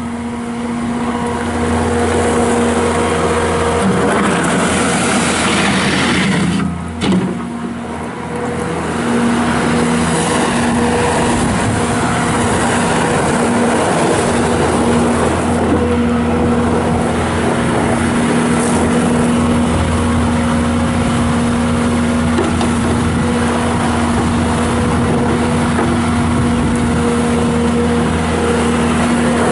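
Bobcat S630 skid steer loader's Kubota V3307 diesel engine running steadily at a constant speed while the machine is operated, with a brief drop in level about seven seconds in.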